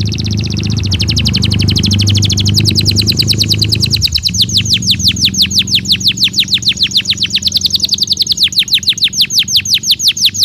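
Belgian canary singing a long fast trill of rapid downward-sweeping notes, about seven a second, over a steady low hum.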